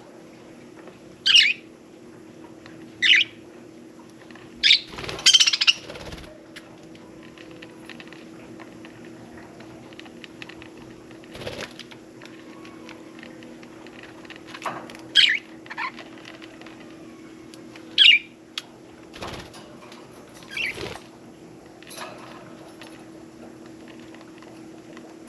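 Budgerigars giving short, high chirps every few seconds, with brief bursts of wing flapping from birds bathing. A faint steady hum runs beneath.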